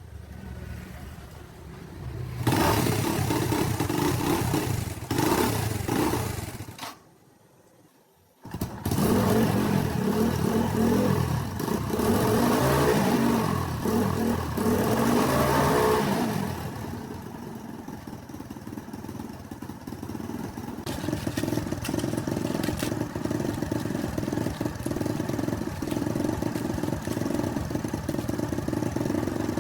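An old tractor's engine runs loud and revving, with a short break of near silence about seven seconds in. It picks up again loud, then settles to a steadier, quieter idle from about seventeen seconds.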